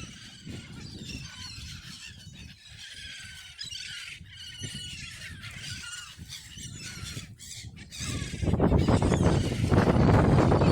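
A crowd of waterbirds calling with quick, high squeals and squawks. About eight seconds in, a much louder rough rushing noise comes in and drowns them out.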